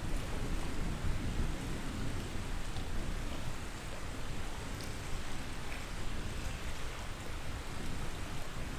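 Steady rushing of flowing water, with a few faint crackles from a campfire.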